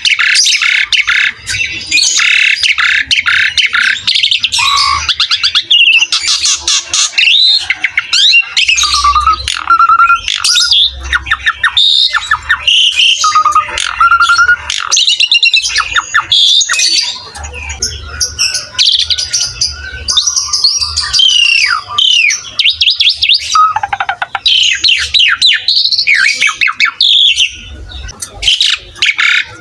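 Asian pied starling (jalak suren) singing non-stop: a fast, varied run of whistled glides and rapid chattering notes, broken only by brief pauses.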